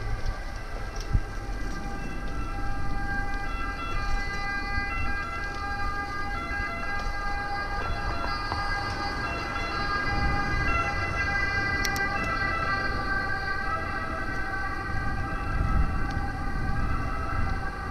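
Emergency vehicle siren sounding steadily over the low rumble of city street traffic.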